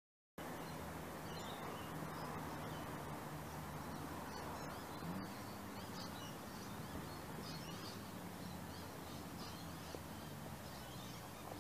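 Outdoor birdsong: several birds chirping and calling again and again over a steady low background rumble. The sound starts abruptly about half a second in.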